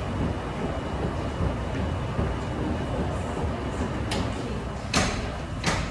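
Wascomat Senior W125 35 lb commercial washer running, a steady low rumble with three sharp knocks in the last two seconds.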